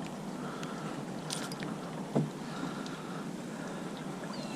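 Steady hiss of rain and water around a kayak being towed by a hooked fish, with a few light ticks and a single low knock about two seconds in.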